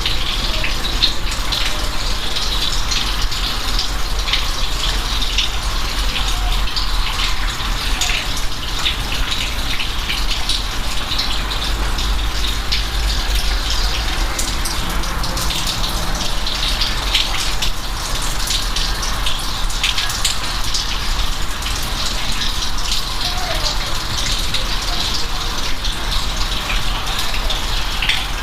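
Steady rain falling, with many single drops splashing distinctly over a constant low rumble.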